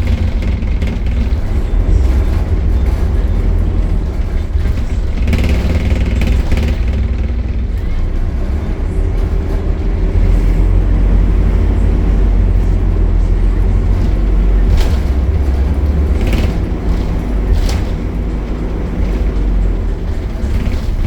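Optare Solo single-decker bus's diesel engine running with a steady low rumble, with a few short knocks or rattles over it.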